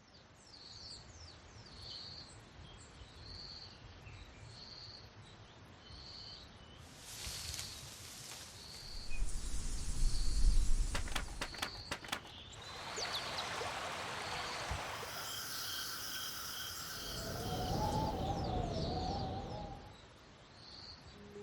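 Designed nature ambience: a short high chirp repeating about once a second, joined from the middle by whooshing noise swells, a quick run of sharp clicks, and a wavering whistle-like tone near the end.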